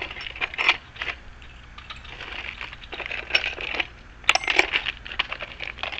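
Loose metal keys clinking and jingling as they are sorted through by hand, with a cluster of sharper, ringing clinks about four seconds in.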